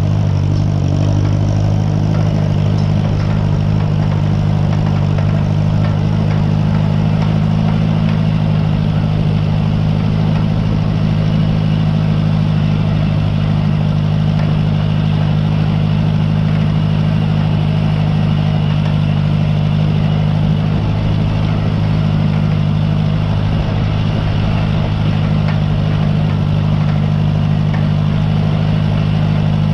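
Tractor engine running steadily at constant speed, pulling a hay rake.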